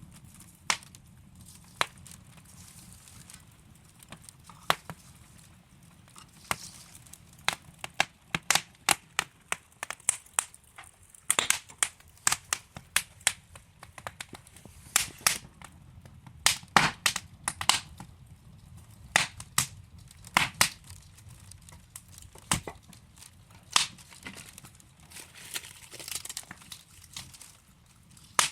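Wood fire burning in a fireplace, the logs crackling and popping in irregular sharp snaps over a low steady rumble of the flames.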